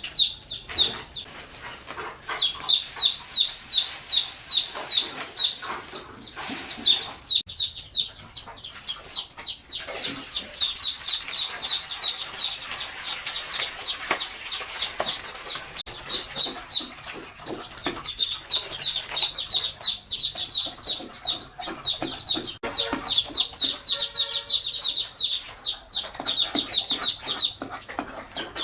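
Chickens clucking, with a busy run of short high chirps, several a second, rising and falling in loudness throughout.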